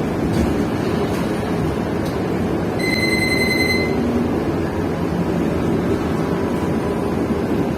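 Steady engine and road noise heard from inside a moving bus, with one high electronic beep about a second long near three seconds in.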